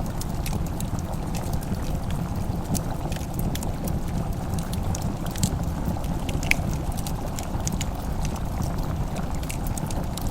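Wood fire crackling in a fireplace: irregular sharp pops and snaps, one louder pop about six and a half seconds in, over a steady low rumble.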